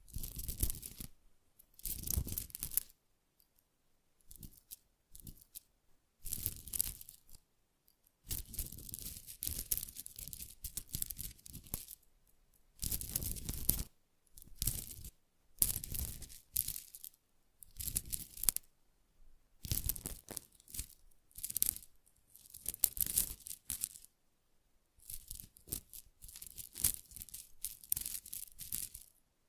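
Close-miked ASMR touch sounds: repeated bursts of scratchy, tearing-like friction noise, each half a second to two seconds long, separated by short silent gaps.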